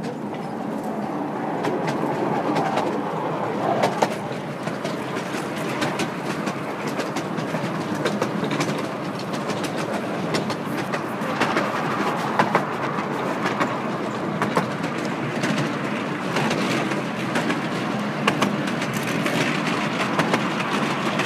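Miniature railway train running, a continuous rumble with frequent sharp clicks of its wheels passing over rail joints.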